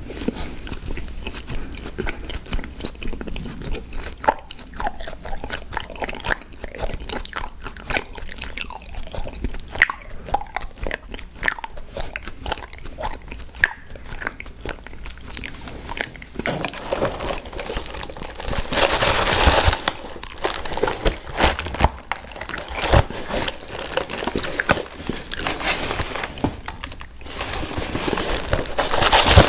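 Close-miked crunching and chewing of crisp cookies, a dense run of irregular crackles and bites, louder for a few seconds past the middle and again near the end.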